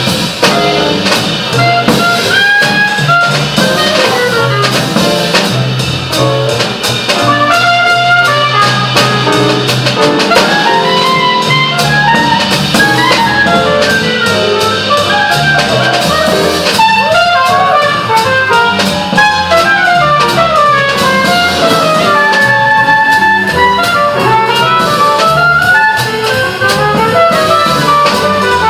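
Instrumental jazz with saxophone and trumpet over a walking bass line and drum kit.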